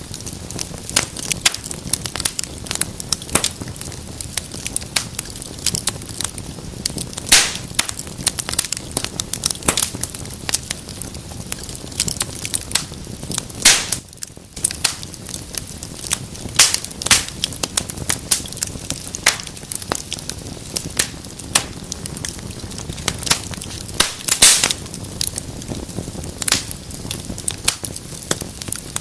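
Wood fire crackling in a fireplace: irregular sharp pops and snaps over a steady low rush of flames.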